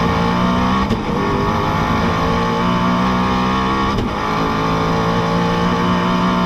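A supercar's engine running at steady high revs, a sustained even drone with brief breaks about one and four seconds in.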